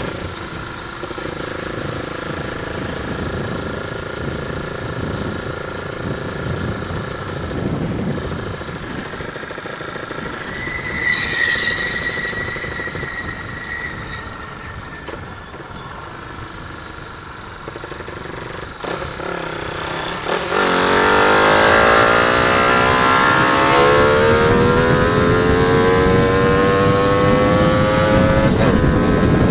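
Motorcycle fitted with a JR Racing aftermarket exhaust, running for a while and then accelerating hard about two-thirds of the way through, its pitch rising twice as it climbs through the revs and gets louder.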